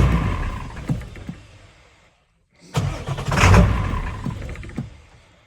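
7.3-litre V8 truck engine, hard to start in the cold, firing on starting fluid. It catches and runs rough and angry, dies away within about two seconds, then fires again a little before the three-second mark and fades out once more.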